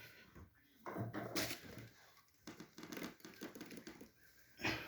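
Anchor bolt being tightened with a socket wrench through wooden floorboards, giving irregular creaks and rasps as the boards and joist are drawn down onto the concrete slab. There is a sharp click about a second and a half in.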